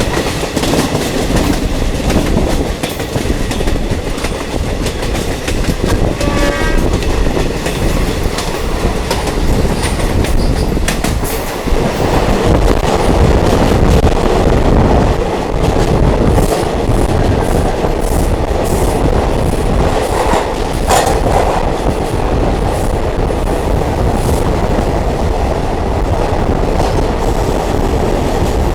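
Diesel multiple unit train running at speed, heard from on board: a steady rumble with wheels clattering over the rail joints.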